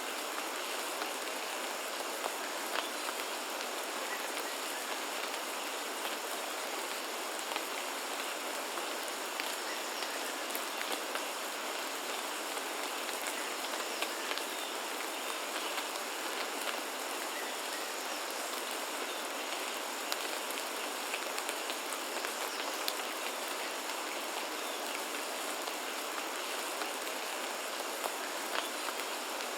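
Steady rain falling, with many separate drop ticks scattered through it, and a faint steady high-pitched tone underneath.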